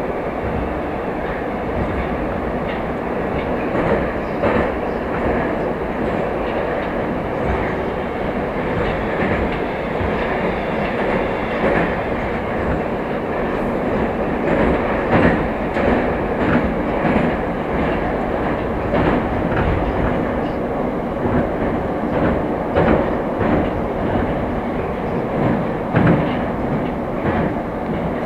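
Moscow Metro "Moskva" electric train running at speed between stations: a steady rumble of the car with the clickety-clack of wheels over rail joints, heard from on board.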